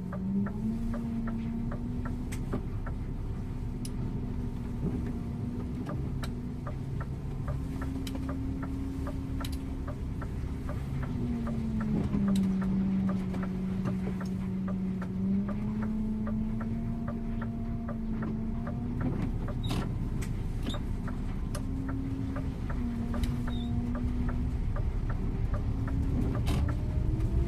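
Scania InterLink bus's diesel engine running under way, its drone stepping up and down in pitch and rising steadily near the end as the bus accelerates. A rapid, regular ticking runs through the first two-thirds.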